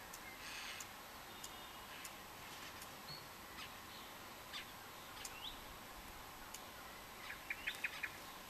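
Faint birdsong: scattered short rising chirps, with a quick run of rapid notes near the end.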